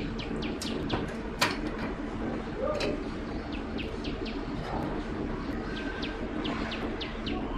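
Small birds chirping in short, falling notes over a steady low background hum, with a couple of light clicks.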